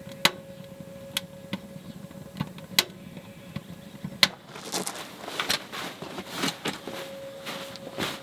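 Sharp single snaps and pops, the kind firewood makes burning in a wood stove, spaced about a second apart. From about halfway they give way to a busy run of rustling and clattering handling noises.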